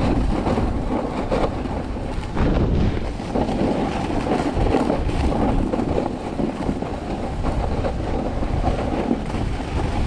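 Snowboard sliding down a snowy slope: a steady rushing scrape of the board on the snow, mixed with wind buffeting the camera microphone.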